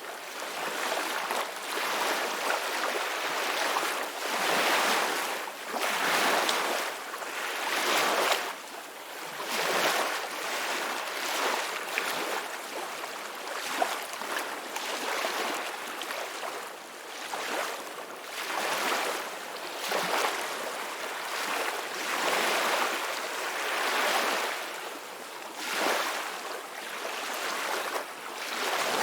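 Ocean waves breaking and washing on a shore, the hiss of surf rising and falling in repeated swells every second or two.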